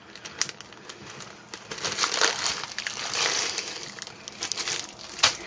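Thin plastic sandwich bag crinkling and rustling as it is opened and handled, with scattered sharp crackles.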